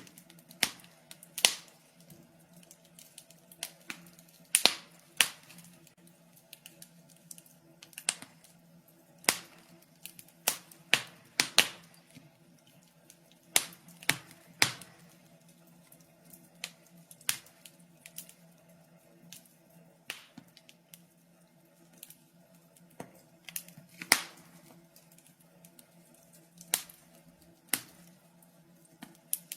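Wood fire crackling in a fireplace: irregular sharp pops and snaps, a few each second, with some much louder snaps standing out.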